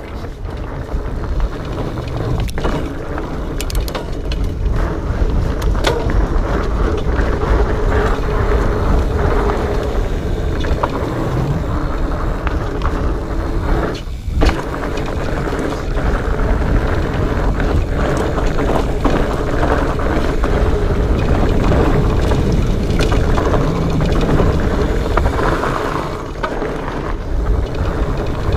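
Specialized Fatboy fat bike ridden on a rocky trail: continuous rolling noise of the fat knobby tyres with a low rumble, and scattered knocks and rattles of the bike over rocks and roots.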